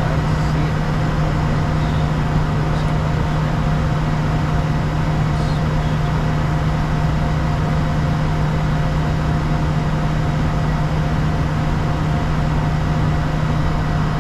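Bombardier Challenger 350 jet in the climb, heard from inside the cabin: a steady rush of engine and airflow noise with a constant low hum.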